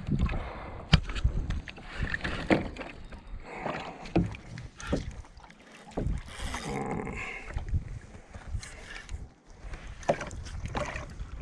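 Water sloshing and splashing around a kayak, with irregular sharp knocks against the hull.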